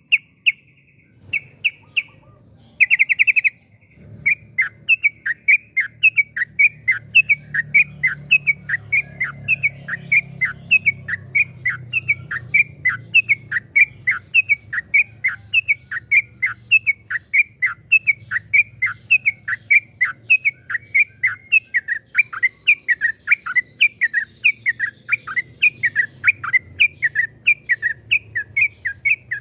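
Yellow-vented bulbul (trucukan) singing. A few short trilled bursts come first. From about four seconds in it runs into a long, unbroken string of quick downward-slurred notes, about three a second: the long rapid-fire 'ropel' song.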